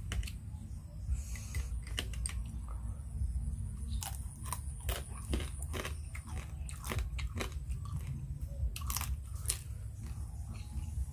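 A person chewing and biting a mouthful of Khmer crab salad (phlea kdam), with irregular sharp crunches and wet mouth clicks.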